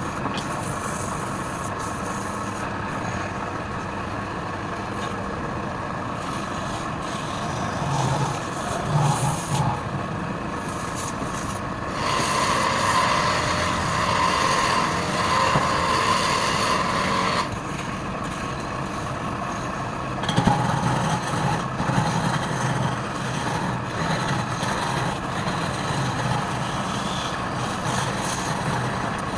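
Wood lathe running with a steady motor hum. A tool works the spinning wood in irregular passes, with one louder stretch of about five seconds near the middle.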